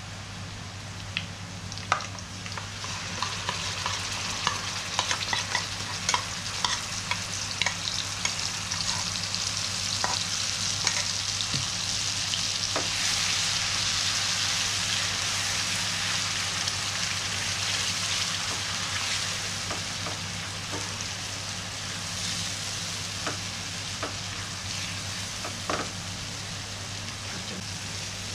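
Sliced onion, garlic and curry paste sizzling in hot oil in a coated wok, stirred with a silicone spatula that scrapes and taps the pan, the paste being fried until the oil separates. The sizzle swells a few seconds in and eases somewhat in the second half, over a steady low hum.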